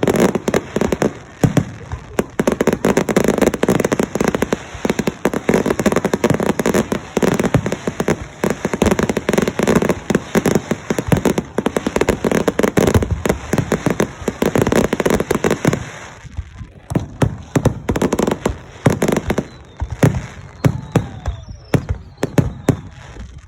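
Fireworks going off: a dense, rapid run of bangs and crackles that thins to scattered bangs for the last several seconds.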